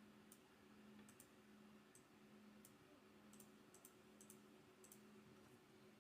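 Near silence with faint, scattered clicks from working a computer, about a dozen at irregular intervals, over a low steady hum.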